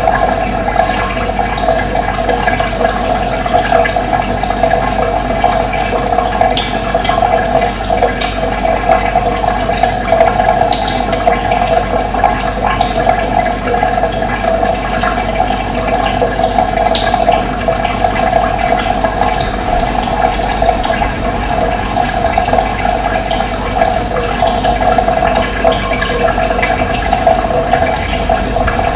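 Steady rushing of flowing water, with faint, scattered high bird chirps over it.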